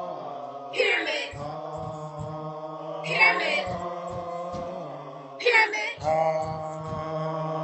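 A man's voice chanting a word over and over in a drawn-out, droning way on one steady pitch, starting a new repetition about every two and a half seconds.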